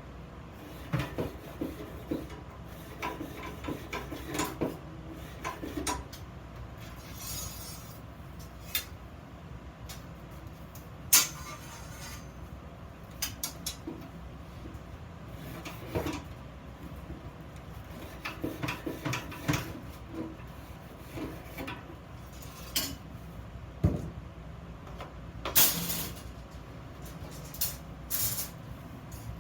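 Scattered metallic clinks and knocks as steel pieces and tools are handled and set down, with one louder clank about eleven seconds in.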